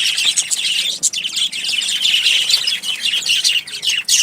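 A crowd of birds chirping and calling over one another in a dense, continuous high-pitched chatter, the noise of a squabbling flock.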